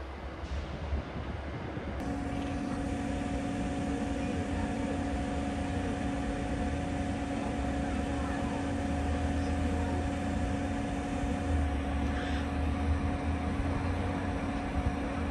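A train running with a steady hum. About two seconds in, two held tones set in over a low rumble and stay steady.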